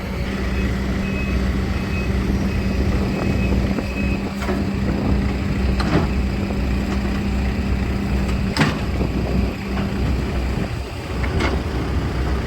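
Diesel engine of heavy earthmoving machinery running steadily, with a row of short high beeps in the first few seconds and several sharp knocks.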